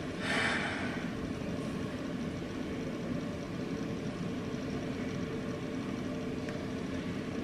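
Steady low machine hum with a constant pitch, and a short rush of hiss about half a second in.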